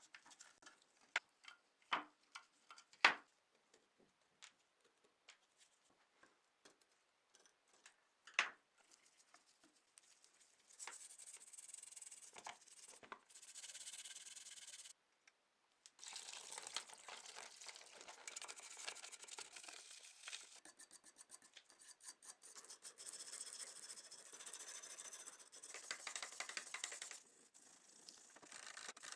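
Hand work on a scale model car. A few sharp taps and clicks come in the first seconds, then long stretches of scratchy rubbing, like sanding, from about eleven seconds in, stopping briefly now and then.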